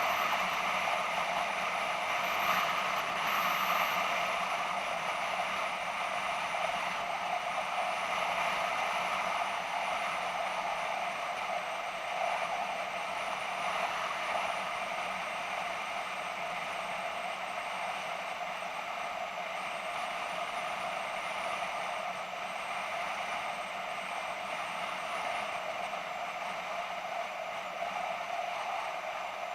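BMW F650GS motorcycle riding at a steady pace: engine and wind noise in one even rush, easing slightly near the end.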